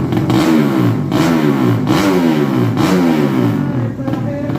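Drag-racing motorcycle accelerating hard through the gears. Its pitch climbs and drops sharply at each upshift, about four shifts less than a second apart.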